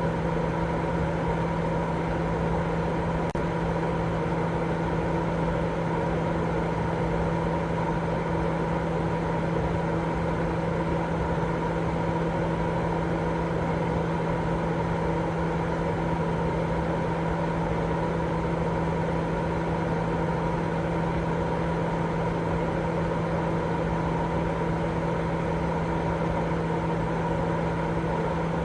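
Continuous sleep white noise: an unchanging rumbling hiss, heavier in the low and middle range than at the top, with a steady low hum running through it.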